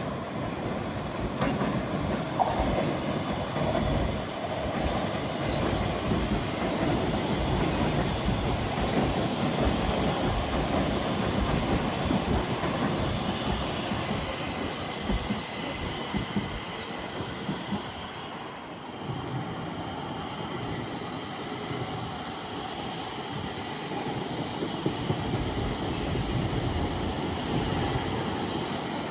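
Stockholm Metro train running on the track: steady rail and wheel noise with a faint high squeal from the wheels. The sound eases a little about two-thirds of the way through.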